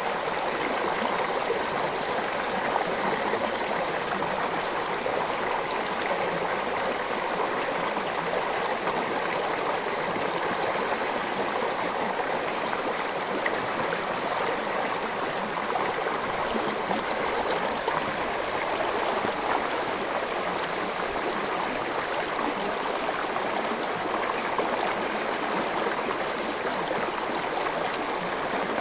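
Forest stream flowing and gurgling over rocks, a steady rush of water.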